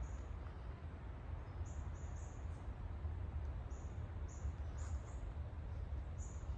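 A small bird calling with short, high chirps, repeating irregularly and often in pairs, over a steady low rumble.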